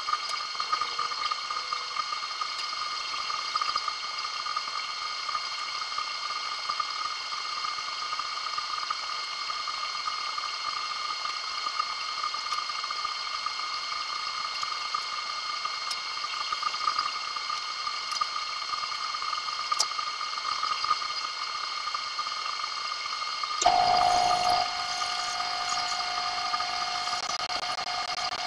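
A steady machine whine made of several constant high tones over a hiss. About 24 seconds in, a brief rush of noise cuts in and a lower steady tone joins, lasting until near the end.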